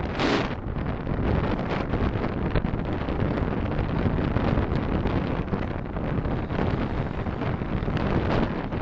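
Steady wind and road noise from a car being driven, with a brief, louder rush of noise just after the start.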